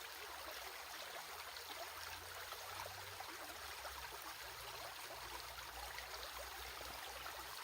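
Water in a flowing stream, a steady, even rush and babble.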